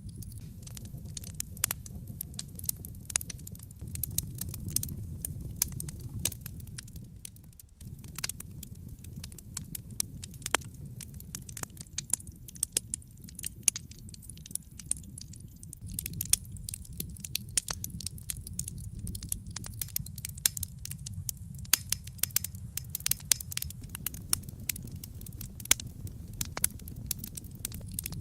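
Wood fire burning in a fireplace: a steady low flame rumble under dense, irregular crackles and sharp pops from the burning logs, which briefly drop away about eight seconds in.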